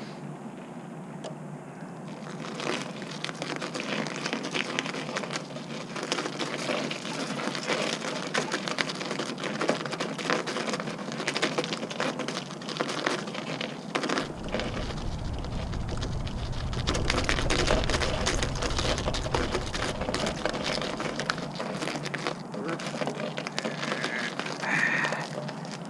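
Continuous crunching and crackling of frozen snow and ice, a dense run of small crisp clicks. A low rumble joins in for several seconds around the middle.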